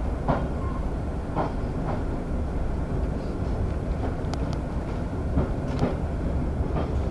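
Passenger train carriage heard from inside while moving: a steady low rumble of wheels on the track, with a few sharp clacks as the wheels pass over rail joints.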